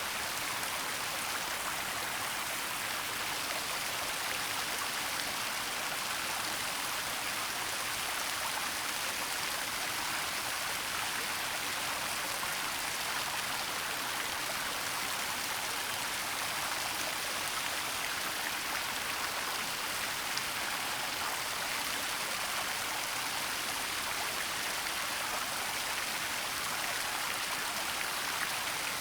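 Waterfall rushing steadily, an even hiss of falling water that is strongest in the high end, with little low rumble.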